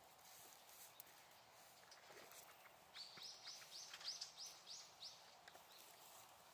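Faint bird song: a quick run of about eight repeated high notes, starting about three seconds in and lasting about two seconds, over a low background hiss with a few faint crackles from the burning wood fire.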